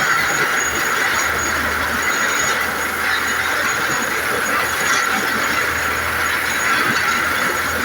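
Steady noise of vehicles running, with a low hum that comes and goes.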